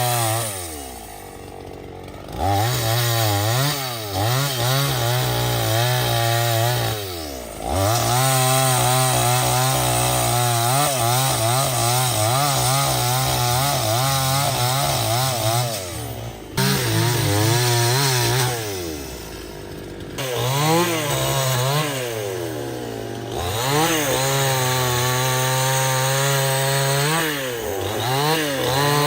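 Chainsaw cutting wood. The engine speed wavers under load and drops to idle several times before revving back up: about a second in, near eight seconds, for a few seconds from about seventeen seconds, and briefly near twenty-three and twenty-seven seconds.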